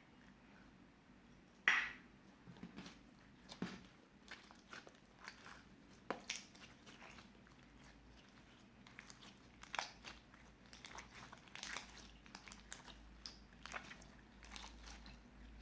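Clear slime mixed with small crystals being squeezed and kneaded by hand: irregular faint crackles and sticky pops, with one louder snap about two seconds in.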